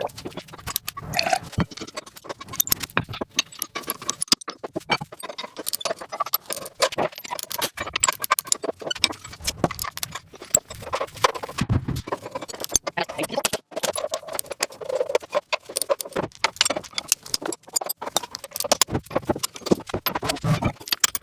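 Rapid, irregular metallic clinking and clattering: many small sharp knocks and rattles in quick succession, like hand tools and loose metal parts being handled.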